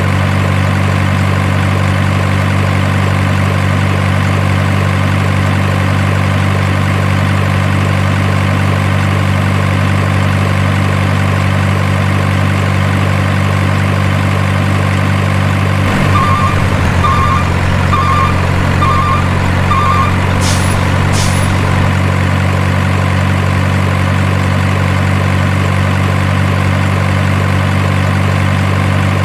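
Truck engine idling sound, very even and unchanging. About 16 seconds in, the engine note shifts slightly. Five short beeps then come about once a second, followed by two brief sharp hisses.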